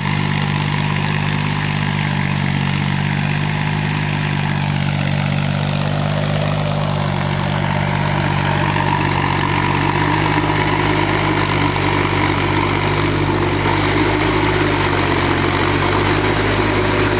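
Engine of a small four-wheel-drive tractor running steadily while tilling a sugarcane field, getting slightly louder in the second half.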